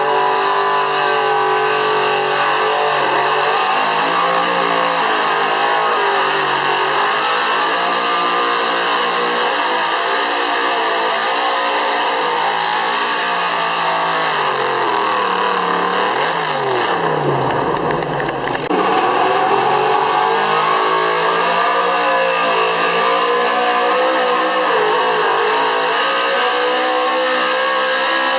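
Street-class 4x4 pickup's engine running hard under load while pulling the weight sled, its pitch wavering up and down. About two-thirds of the way through the revs drop sharply, then climb back up.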